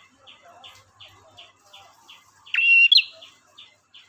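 Male prenjak (prinia) calling: one loud phrase about two and a half seconds in, a held high whistle ending in a sharp upward note. Under it runs a faint, steady series of short high chip notes, about three a second.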